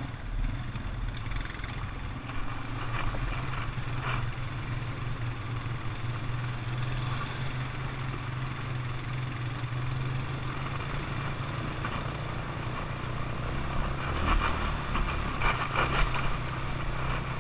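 ATV engine running steadily, with a few louder, rougher noises near the end.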